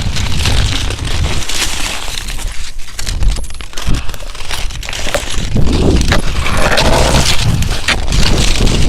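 Irregular crunching of crusted snow as someone moves over it, with wind rumbling on the microphone. It grows louder and denser about halfway through.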